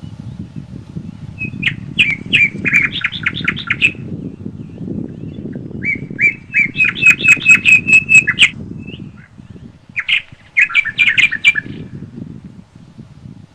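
A bird calling in three bouts of quick repeated notes, about five or six a second, the middle bout the loudest, over a steady low rumble of wind through the forest.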